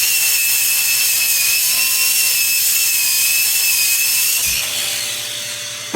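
Angle grinder grinding welds on steel pipe, a steady high whine over grinding noise. After about four and a half seconds it comes off the work and winds down, and a knock follows right at the end.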